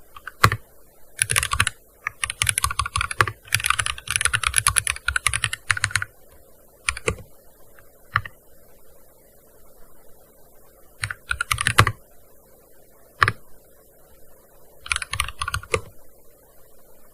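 Typing on a gaming keyboard: quick runs of key clicks, the longest in the first few seconds, broken by pauses and single keystrokes, with another short burst near the end.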